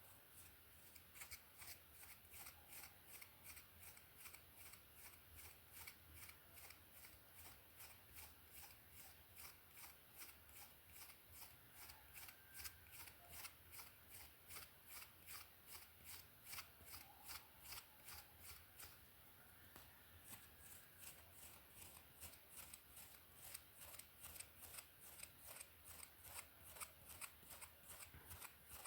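A hairbrush drawn through hair in faint, quick, repeated strokes, about two a second.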